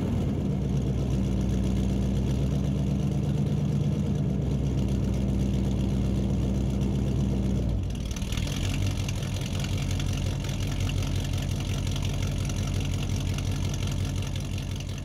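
Car engine idling steadily with a low rumble. About halfway through, the idle changes to a rougher pulse with more hiss on top, and it fades slightly near the end.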